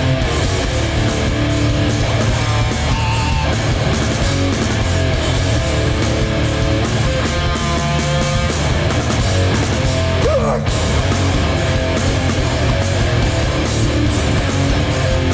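Hardcore punk band playing live: heavy distorted electric guitars and bass over hard-hit drums, in an instrumental stretch with no vocals, with a short break about ten seconds in.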